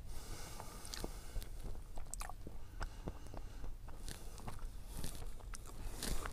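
Close-up eating of a glazed pastry tube filled with cottage cheese: bites and chewing with scattered small crunches and mouth clicks.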